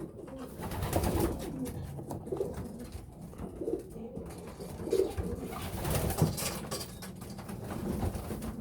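Young racing pigeons cooing in a loft, soft low calls repeating every second or so, with a few light knocks among them.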